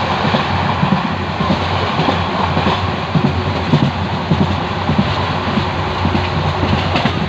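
Passenger train running along the track, heard from inside the coach: a steady rumble of wheels on rails with a low hum and irregular knocks and clacks.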